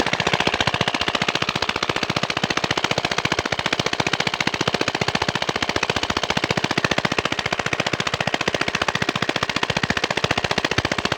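Single-cylinder 'China' diesel engine, of the kind used to drive village water pumps, running steadily with a rapid, even beat of exhaust knocks.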